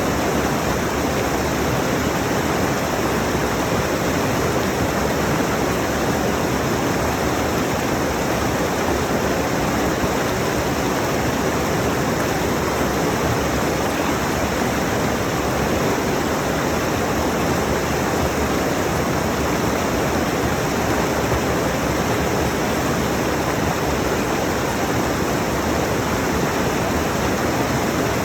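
Rushing mountain stream: a steady, dense rush of water over rocks.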